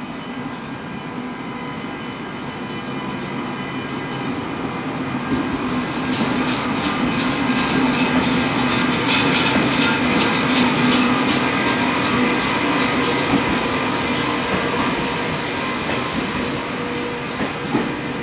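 TGV Euroduplex tri-current double-deck trainset rolling past along the platform. A steady whine from the power car's equipment grows louder as it nears, then the wheels click repeatedly over the rail joints as the cars pass. A brief hiss comes near the end.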